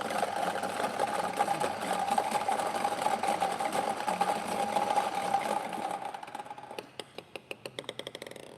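A prize-draw spinner runs with a fast, dense clattering of clicks over a steady hum. Near the end the clicks slow down and stop as it comes to rest on the drawn number.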